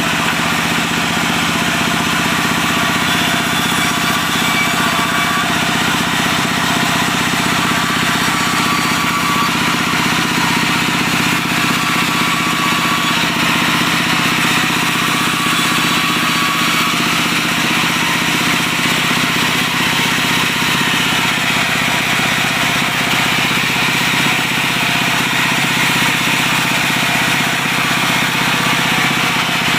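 Diesel engine of a wood-sawing machine running at a steady speed, with a dense hiss over it throughout.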